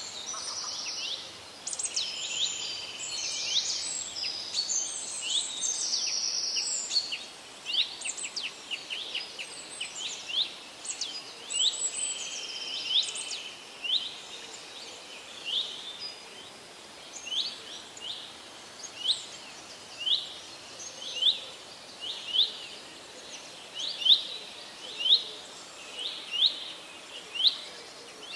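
Birds chirping over a faint steady hiss: a busy mix of quick calls and buzzy trills in the first half, then one sharp chirp repeated about once a second.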